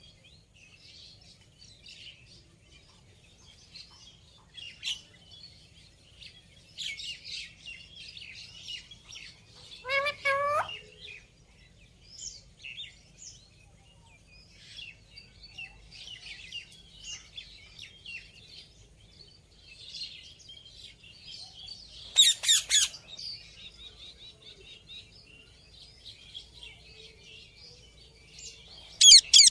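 Indian ringneck parrot chattering with quick high chirps throughout, a short pitched call about a third of the way in, and loud squawks about three quarters of the way through and again at the end.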